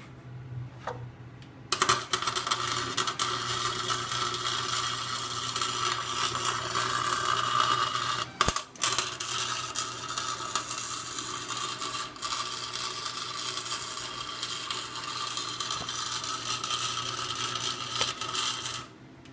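Harbor Freight welder welding a truck's differential together to lock it: a steady electric-arc crackle starts about two seconds in, breaks off briefly about halfway, then runs on until it stops suddenly near the end, over the machine's steady hum.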